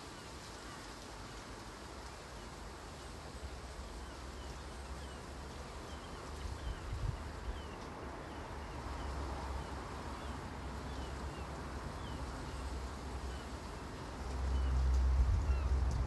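Wind buffeting the microphone as a low rumble that swells near the end, with small birds chirping repeatedly in short high notes.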